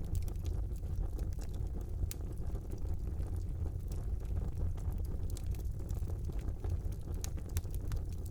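Fire burning in a brick fireplace: a steady low rumble of the flames with many small crackles and pops scattered irregularly throughout.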